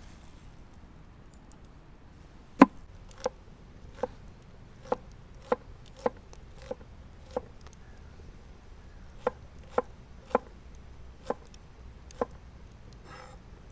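Knife chopping food on a cutting board: about thirteen separate sharp chops at an uneven pace of one or two a second, with a pause of about two seconds midway. The first chop is the loudest.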